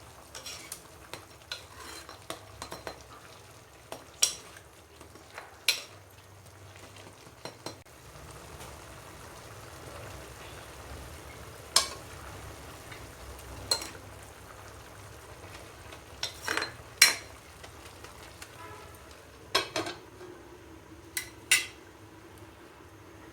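Food sizzling in a pan while a metal utensil stirs it, with a steady sizzle and sharp clinks of the utensil against the pan about ten times.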